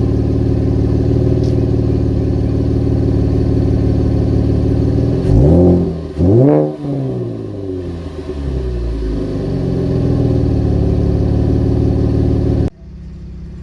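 2014 Chevrolet Camaro's 3.6-litre LFX V6 running at a fast cold-start idle, blipped twice in quick succession about five and six seconds in, each rev rising and falling back before it settles to idle again. The sound drops abruptly near the end.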